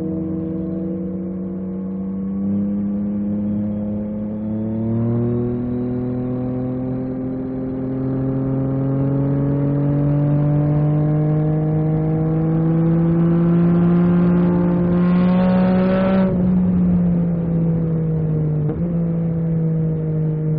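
Yamaha MT-09 SP's inline three-cylinder engine heard from the rider's seat, pulling in gear with its pitch climbing slowly for about ten seconds as the bike accelerates. The throttle closes near the end and the pitch falls sharply, with a brief dip, before it settles at a steady note.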